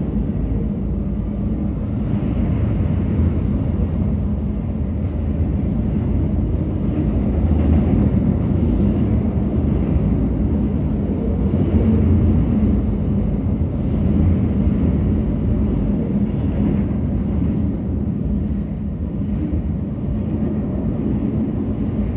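A train passing on the main line: a steady heavy rumble with a constant low hum, swelling slightly now and then.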